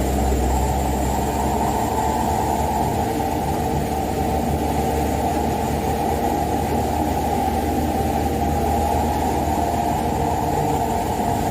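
Diesel engine of a Mitsubishi Canter 125HD dump truck running steadily on the road, with a low rumble. The truck is heavily laden with wet sand, about 12 tonnes.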